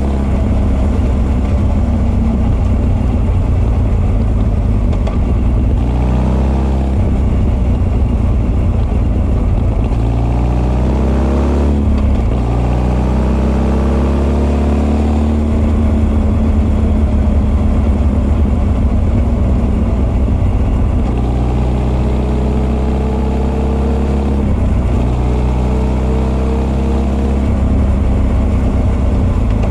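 Honda CB1300 SF's inline-four engine breathing through Keihin FCR41 carburettors and an r's gear Wyvern full exhaust, riding along under power. Its note climbs several times as it pulls, with a sharp drop about twelve seconds in, then climbs again.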